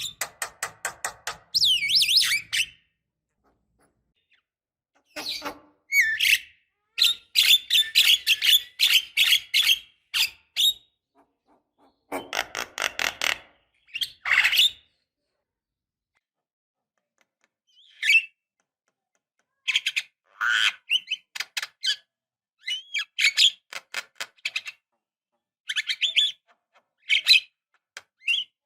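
Javan myna (jalak kebo) singing in bouts of fast, harsh rattling chatter mixed with short whistled notes, each bout lasting one to three seconds and separated by silent pauses.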